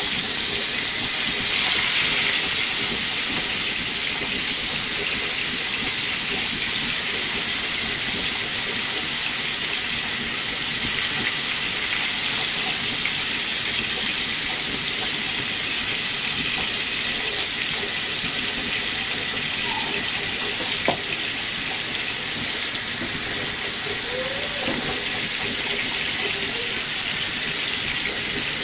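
Chicken pieces sizzling steadily in hot oil in a frying pan as they are first browned, a high even hiss that swells briefly about two seconds in. A single sharp click is heard about 21 seconds in.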